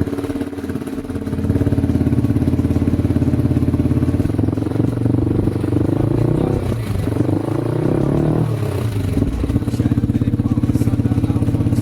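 Yamaha R15 V4's 155 cc single-cylinder engine idling through an aftermarket Akrapovic slip-on exhaust with its dB killer fitted. The engine is revved briefly around the middle, then settles back to a steady idle.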